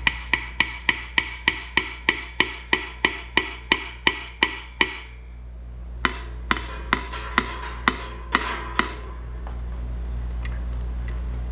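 Hammer tapping on the crankcase of a Briggs & Stratton 17.5 Intek engine to split the case halves apart: a quick run of sharp, ringing taps about four a second, a brief pause, then a second run of about eight taps. A steady low hum runs underneath.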